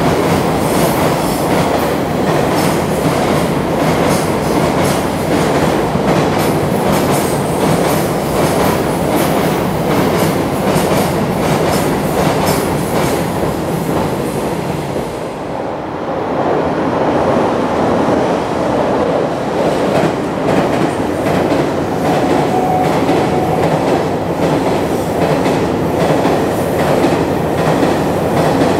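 Freight trains passing at speed on an elevated viaduct: a steady rumble with wheels clacking rapidly over the rail joints. The noise dips briefly about halfway through, then a second freight train runs past.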